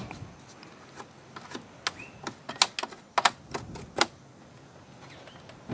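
Irregular sharp clicks and clacks, bunched between about two and four seconds in: hands and tools knocking against a GE clothes dryer as lint and sand are cleaned out of it.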